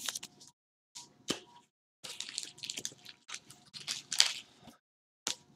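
Trading cards being handled and shuffled on a table: a run of short rustles, with a sharp click about a second in and busier rustling toward the middle.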